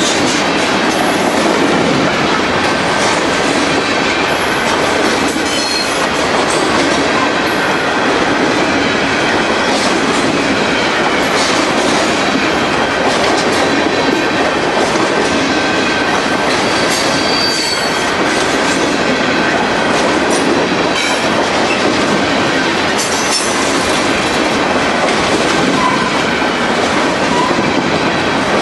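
Freight train of covered hopper cars rolling past at trackside: a steady rumble and clatter of steel wheels on the rails, with scattered knocks and a few brief high wheel squeals.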